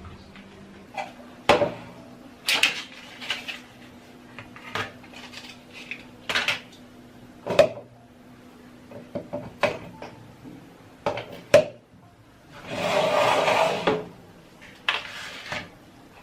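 Kitchen items being handled during cleaning: dishes, utensils and cupboard or drawer parts knocking and clinking in short, separate strikes. About three-quarters of the way through comes a longer rushing hiss lasting about a second and a half.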